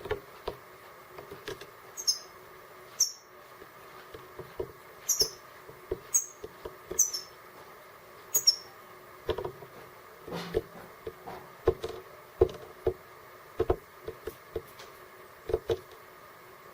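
Small birds pecking at seed: irregular sharp taps and clicks, with six short, high, falling chirps in the first half.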